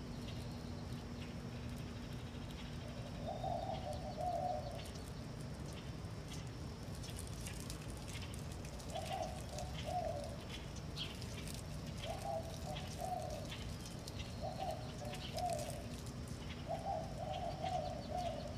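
A bird cooing: five low calls of about a second each, spaced irregularly, over a steady low hum and faint ticking.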